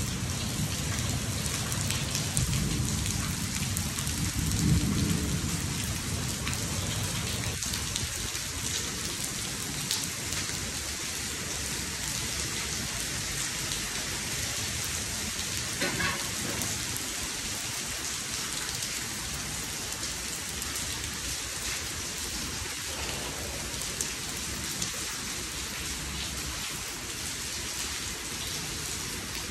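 Heavy rain pouring onto a swimming pool and its screened enclosure, a steady hiss, with a low roll of thunder in the first several seconds.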